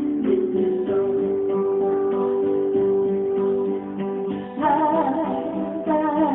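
Acoustic guitar strummed under a singer's voice in a slow song. The singer holds one long note for about three seconds, then sings on again from about four and a half seconds in.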